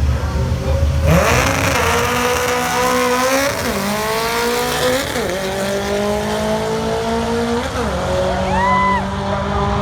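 Car engine launching hard about a second in and accelerating through the gears, its pitch climbing and then dropping back at each of three gear shifts. A brief higher whistle comes in near the end.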